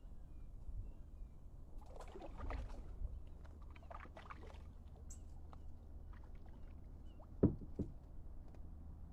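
Kayak paddle dipping and splashing in the water for a few strokes between about two and five seconds in, over a steady low rumble. Two sharp knocks come close together near the end.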